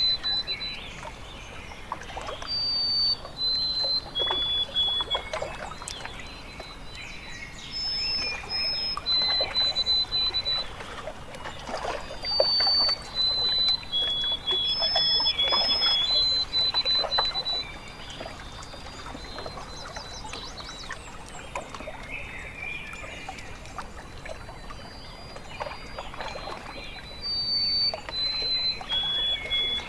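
Water lapping and trickling at a lake's edge, swelling and easing in uneven surges, with a bird singing clear whistled notes that step between a few fixed pitches.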